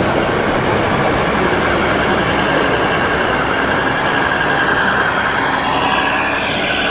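The electric motor of a 1/14-scale RC construction model running steadily with a whine that rises in pitch near the end.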